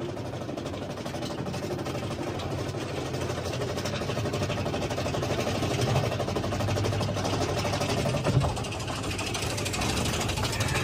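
Mine-train roller coaster rumbling and clattering along its track, a steady rapid rattle that grows slightly louder.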